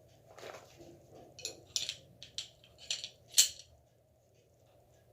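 Metal parts of a field-stripped pistol clicking and rattling against each other as the gun is reassembled: a run of short, sharp clicks, the loudest about three and a half seconds in.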